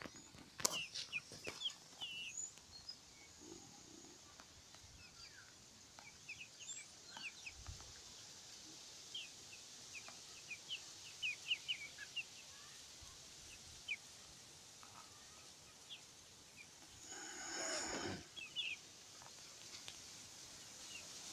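Faint birdsong: many short chirps and calls from several birds, over a steady high hiss. Near the end a louder noisy sound lasts about a second and a half.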